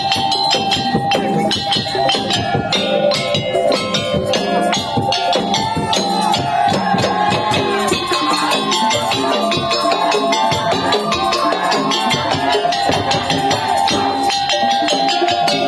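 Madurese tong-tong (daul) ensemble playing: dense, fast percussion with a sustained pitched melody over it.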